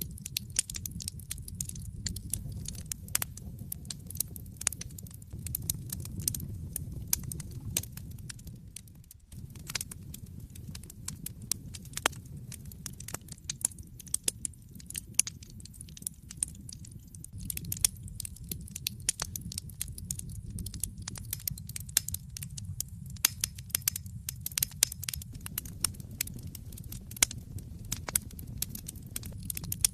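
Wood fire in a fireplace crackling and popping, with many sharp snaps over a steady low rumble of the flames. The rumble briefly drops out about nine seconds in.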